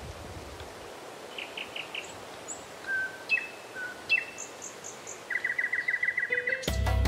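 Woodland birds calling and singing: a quick run of chirps, a few high whistled notes and short downward slurs, then a fast trill held for about a second and a half. Music with a low bass comes in just before the end.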